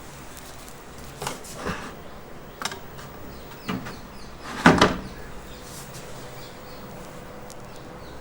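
A handful of irregular knocks and bumps, the loudest about four and a half seconds in, over a faint steady hum.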